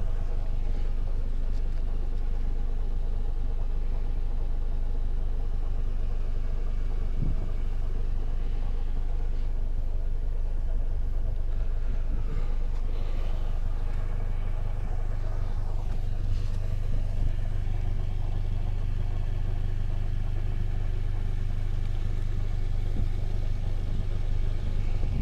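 Nissan 240SX S13's engine idling steadily.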